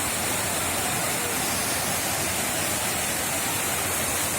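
Waterfall rushing steadily close by: a constant, even hiss of falling water.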